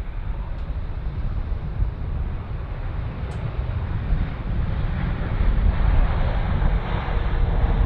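Jet airliner engines rumbling, growing louder over the last few seconds, with wind buffeting the microphone.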